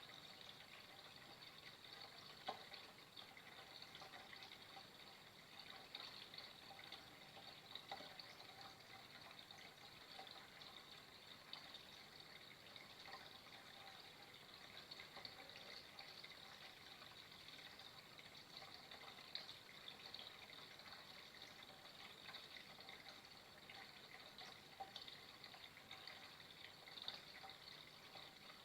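Faint, steady flowing water, an even trickle with small splashes and drips scattered through it.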